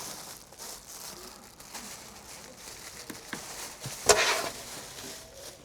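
Rustling and handling noises with a few small clicks, and one sharp knock about four seconds in.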